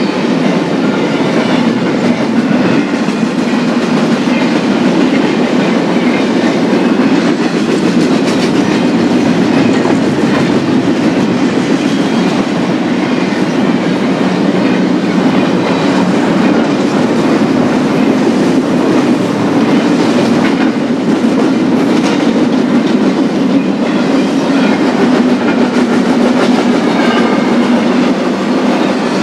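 Cars of a BNSF intermodal stack train rolling past steadily, wheels running on the rails.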